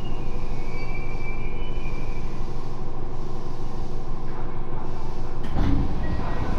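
Tokyo Metro 7000-series train with a Hitachi IGBT inverter, heard from inside the car: a steady rumble from the wheels and motors with a faint high whine, as the train brakes toward a station. A clatter from the wheels passing a rail joint comes about five and a half seconds in.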